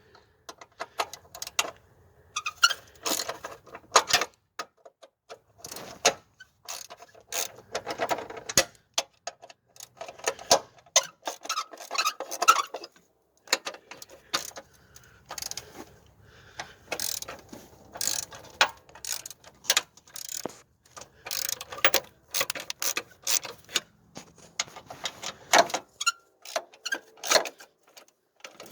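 Socket ratchet clicking in runs as rusty 12mm battery-tray bolts are backed out, with short pauses between the runs.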